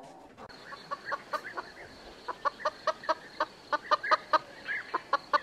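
Chicken clucking: a run of short, sharp clucks that starts about a second in and comes irregularly, several a second at times.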